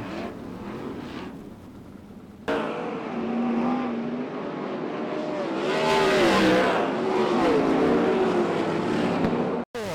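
Several dirt-track race car engines running on a clay oval, their pitches rising and falling as they accelerate and pass. A quieter stretch at the start gives way suddenly to much louder engine sound about two and a half seconds in.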